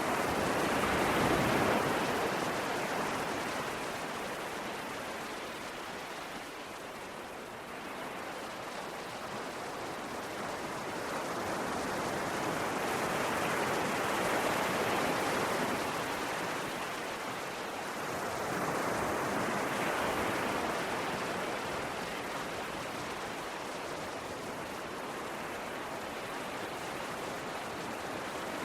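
Ocean waves: a steady wash of surf that swells and eases slowly, cresting a few times several seconds apart.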